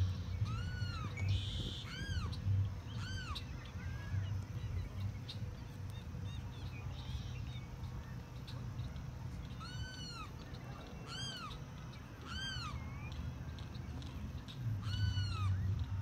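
A bird giving short calls in runs of about three, one every second or so. Each call rises and then falls in pitch. A steady low rumble runs underneath.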